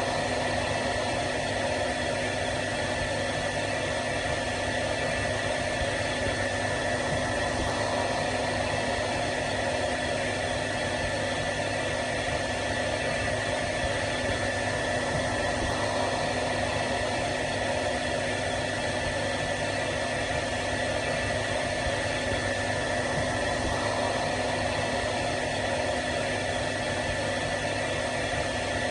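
Hair dryer running steadily on one setting: a constant rush of blown air with a steady motor whine through it, unchanging throughout.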